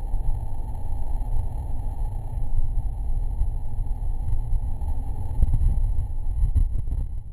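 Steady rumble of a moving train heard from on board, with low wind buffeting, cutting off suddenly at the very end.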